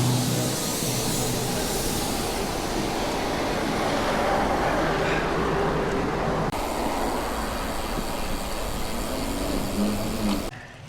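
Steady rushing wind and road noise while riding a bicycle. The noise changes abruptly about six seconds in and drops away suddenly near the end.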